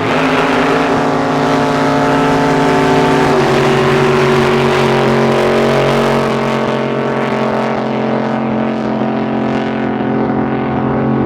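Drag boat's racing engine running loud and steady, its pitch stepping down slightly about three seconds in.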